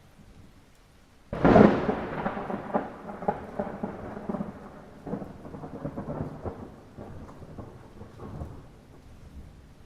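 A thunderclap over light rain. It breaks suddenly about a second in, then rumbles and crackles as it fades away over several seconds.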